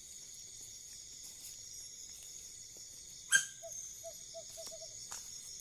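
Crickets chirring steadily at night. A little past halfway comes one loud, sharp animal cry that drops quickly in pitch. It is followed by a quick run of about six short, low calls from an owl.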